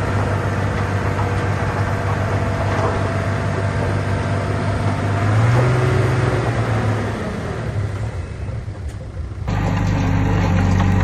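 Heavy diesel engine of earthmoving equipment running with a low, steady hum, revving up briefly about halfway through and then dying away. About a second and a half before the end the sound changes abruptly to another steady engine hum.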